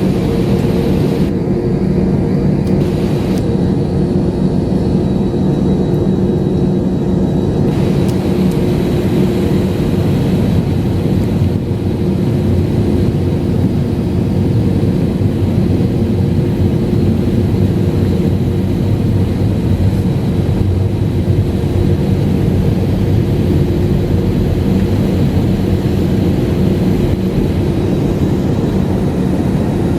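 Jet airliner engines running, heard from inside the passenger cabin as a loud, steady roar with a low, even hum.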